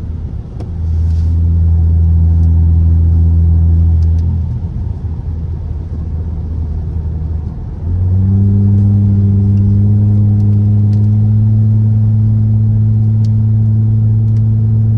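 Straight-piped Dodge SXT V6 exhaust droning loudly under throttle, heard from inside the car: one pull of about three seconds starting a second in, then a longer, steady pull from about eight seconds in, with the note holding nearly level and quieter running in between.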